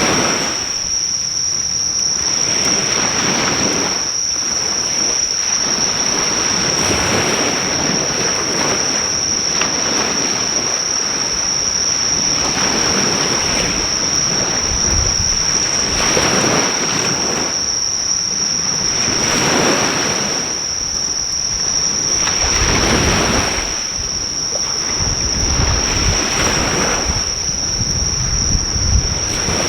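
Ocean waves washing onto the shore, swelling and easing every few seconds, over a steady high-pitched insect chorus. A driftwood fire's crackle is barely heard beneath them.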